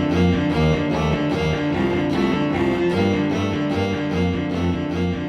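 Cello playing a melody over an accompaniment of evenly repeated notes.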